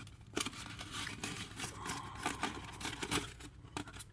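Light rustling, scraping and small irregular clicks and taps of a model locomotive's cardboard box and packaging being handled.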